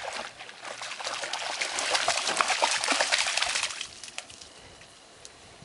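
Crackling, splashy rush of water over wet sand, building and then fading away a little under four seconds in.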